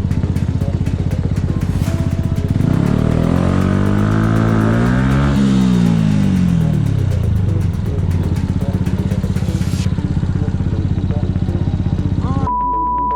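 A motorcycle engine runs steadily with an even firing beat, as heard by the rider. In the middle, another engine note rises in pitch and then falls away. Near the end, a steady beep about a second long cuts in, like a censor bleep.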